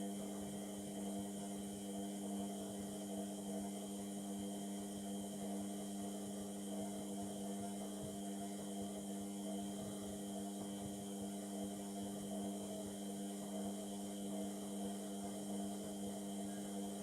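Indesit MTWC71252WUK washing machine running mid-cycle on a Cottons 30 wash: a steady hum that does not change.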